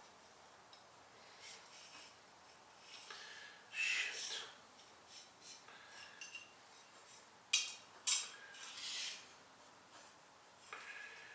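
Intermittent short scrapes and light metallic clinks from handling a hand plane and its freshly sharpened blade, the loudest a few brief swishes about four seconds in and again near eight to nine seconds.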